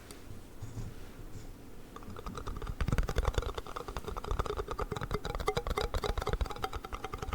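Rapid tapping and clicking on plastic yogurt cups, fast and even like typing, starting about two seconds in after a quieter opening.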